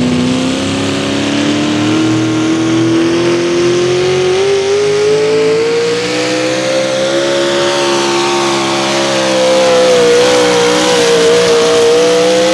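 A pulling vehicle's V8 engine running at full throttle under load during a pull: its pitch climbs steadily for about eight seconds, then holds with a slight waver, and falls away sharply near the end as the throttle is let off.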